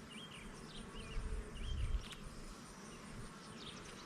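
Agitated honeybees buzzing around an open hive, with a low rumble that builds to a peak just under two seconds in.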